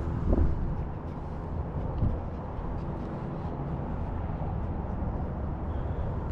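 Steady low rumble with a faint motor hum, broken by two dull thumps, one just after the start and one about two seconds in.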